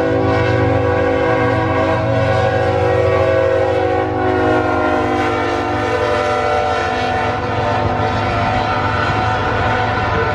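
BNSF intermodal train passing, its locomotive horn held as a steady multi-tone chord that dips slightly in pitch a few seconds in as the locomotives go by, over the rumble of the diesel engines and the rolling train.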